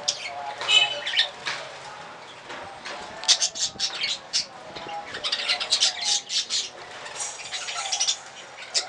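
Budgerigars chirping and chattering in quick runs of short, high notes, with denser bursts about three, five and seven seconds in.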